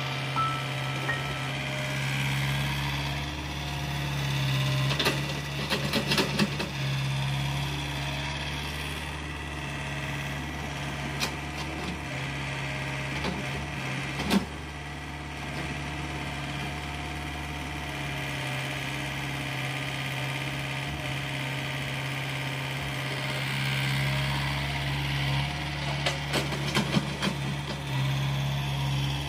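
The engine of earth-moving machinery running steadily, with scattered metallic clanks and knocks every few seconds and a couple of short beeps at the start.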